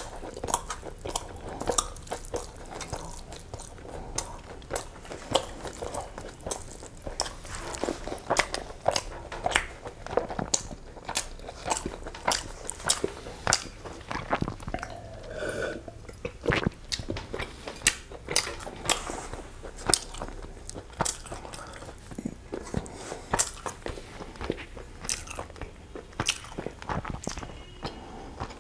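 Close-miked eating of egg biryani and chicken curry by hand: chewing with many irregular wet smacks and mouth clicks.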